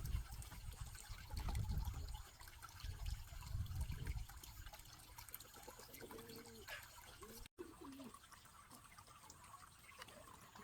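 Faint water trickling, with low rumbling during the first few seconds. Near the end a dove coos softly in short, bending calls.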